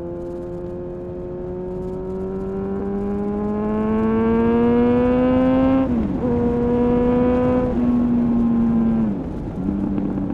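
2000 Honda CBR929RR Fireblade's inline-four engine through an Erion full racing exhaust, pulling through a gear with a steadily rising pitch, then an upshift about six seconds in. It holds steady for a few seconds, and the pitch drops again just after nine seconds.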